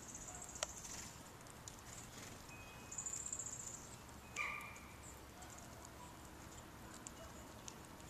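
Small birds calling: high, thin, buzzy bursts near the start and about three seconds in, then a short lower chirp about four and a half seconds in, with scattered light clicks.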